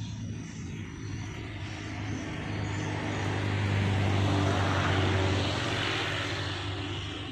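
Propeller aircraft passing over: a steady engine drone that swells to a peak about four to five seconds in and then fades.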